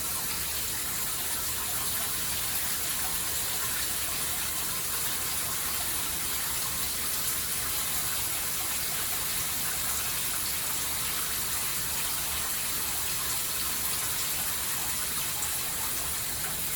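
Shower running: a steady hiss of water spray falling.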